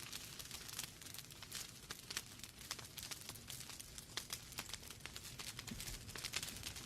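Wood fire crackling in a fireplace: many sharp, irregular pops and snaps from burning logs over a faint low rumble of the flames.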